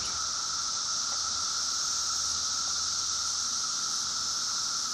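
Chorus of periodical cicadas: a steady, unbroken drone with a lower hum and a stronger high-pitched hiss above it.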